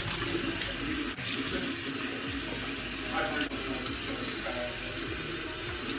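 Steady rushing noise of strong dust-storm wind, with brief breaks about a second in and halfway through.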